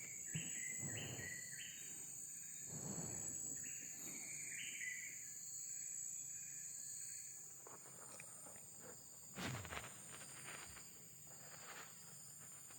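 Steady high-pitched insect drone, with a bird giving short flat whistled notes through the first five seconds and a few faint rustles.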